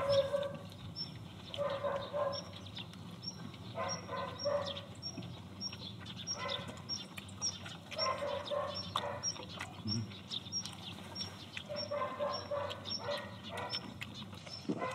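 People chewing and eating close to the microphones, with short pitched animal calls in clusters of two or three every second or two. A faint high ticking repeats about three times a second.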